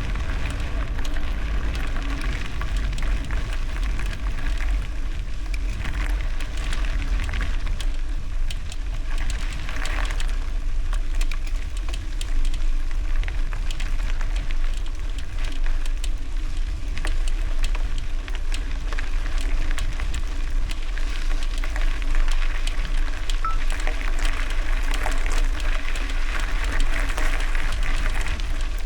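Bicycle tyres rolling over gravel, a steady crackle of small stones, under a heavy low rumble of wind buffeting the microphone.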